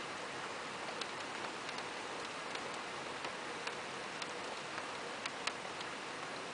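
Steady hiss of rain with irregular sharp ticks of single drops striking close by, two of the loudest just after five seconds in.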